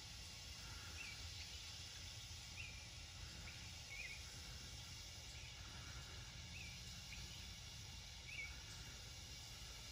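Faint outdoor ambience: a bird gives short, high chirps about once a second over a steady low background rumble.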